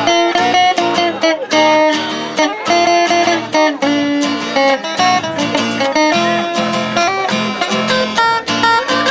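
Viola caipira and acoustic guitar strummed and picked in a steady rhythm, an instrumental break between the sung verses of a moda caipira song.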